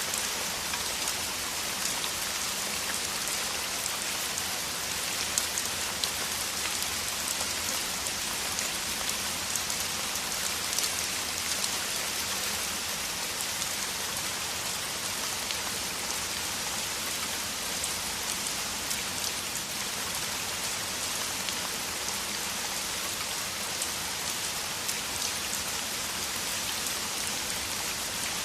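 Downpour of heavy rain falling steadily: an even hiss flecked with many sharper drop ticks.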